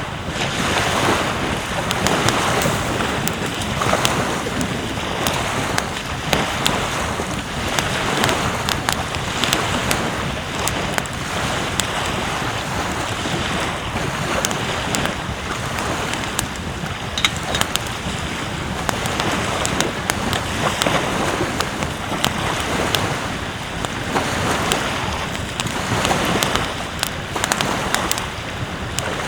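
Ocean surf washing onto the beach in repeated surges, with wind buffeting the microphone and a scatter of sharp little clicks.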